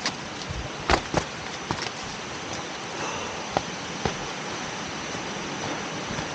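Steady rushing of a forest waterfall and stream, broken by a few short sharp knocks about a second in and again near the middle.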